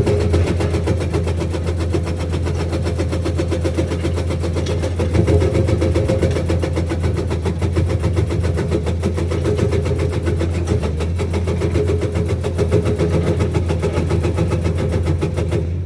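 Hydraulic breaker on a Komatsu PC210 excavator hammering in a rapid, even stream of blows over the excavator's diesel engine running. The hammering stops just before the end, leaving the engine alone.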